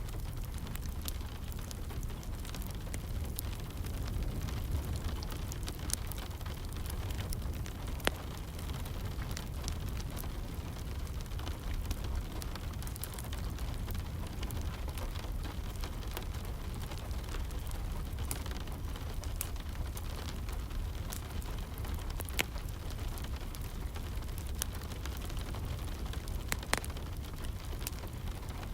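Wood fire crackling in a fireplace, with irregular sharp pops scattered over a steady low wash of soft rain.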